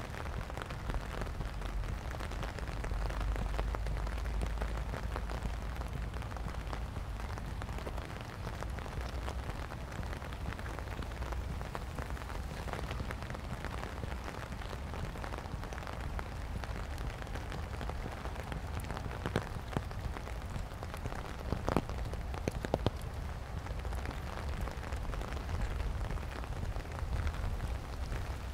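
Steady rain pattering on wet pavement and leaves, with wind rumbling on the microphone. A few sharper taps stand out about two-thirds of the way through.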